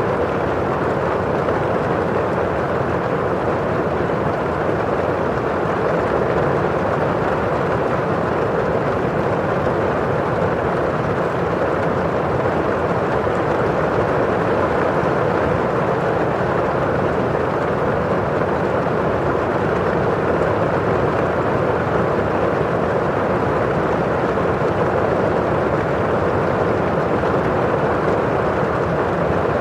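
Steady rain falling on a window pane and outside, an even hiss with no single drops or gusts standing out.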